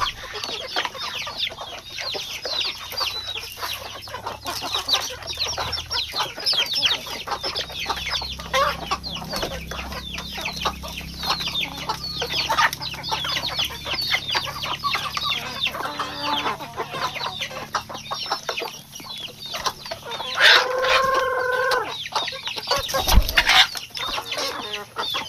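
A flock of chickens clucking and chirping as they feed, a busy run of short, high calls. About three-quarters of the way through there is one longer drawn-out call, and a dull thump comes near the end.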